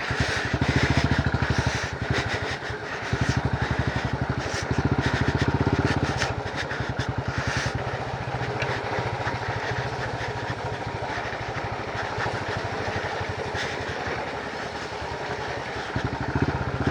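A small two-wheeler engine running under way. Its revs and loudness swell and drop several times in the first eight seconds, then settle steadier.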